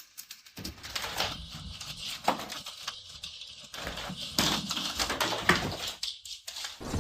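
Irregular knocks and clatter from an animal moving about in a small room.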